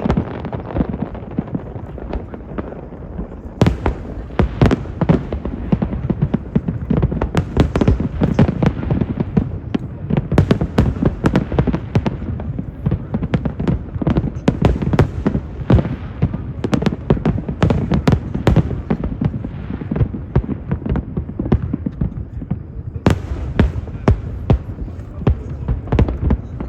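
Fireworks display: many overlapping aerial shell bursts, booms and crackles over a continuous rumble, with several dense barrages of rapid-fire reports.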